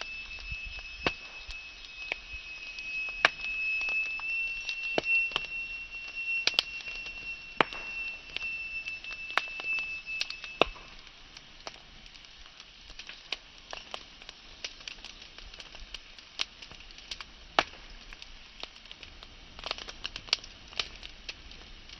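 Wood fire crackling and popping in a fireplace, with irregular sharp snaps, busier in the first half. A thin, steady high whistle sounds over the crackle and stops about halfway through.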